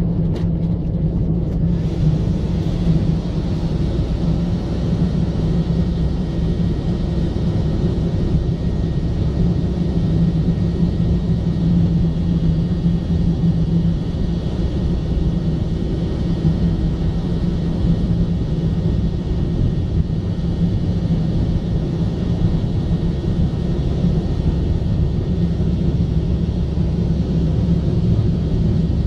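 Car driving on a road: a steady low rumble of engine and tyres with no let-up.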